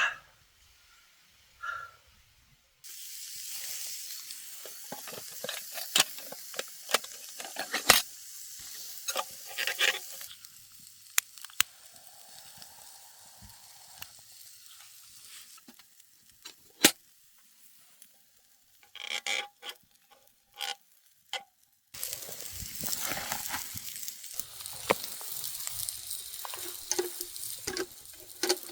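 Sizzling and crackling of cooking over an open campfire, with many sharp pops. It starts suddenly about three seconds in, thins to scattered pops and clicks midway, and starts suddenly again near the end.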